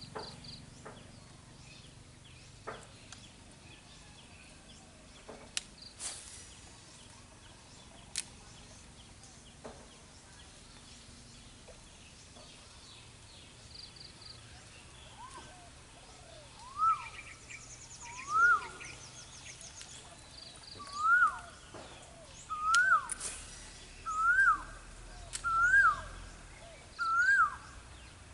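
Outdoor birdsong: a bird repeats a short, loud whistled note that rises and then drops, roughly once every second and a half, starting about halfway through, while other birds give faint high chirps. A few sharp clicks sound in the first half.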